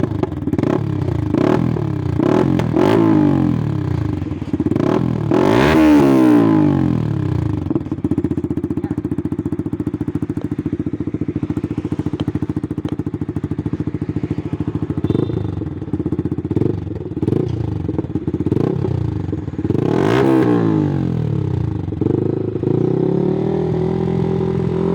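Yamaha R15 V3's single-cylinder engine, breathing through an aftermarket exhaust with a bend pipe, being revved in repeated quick throttle blips over a steady idle, with two bigger revs at about six and twenty seconds in.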